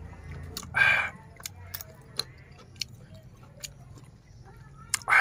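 A person eating with a spoon, open-mouthed chewing and lip smacks with a string of short sharp clicks. Two louder, short mouth sounds come about a second in and again near the end.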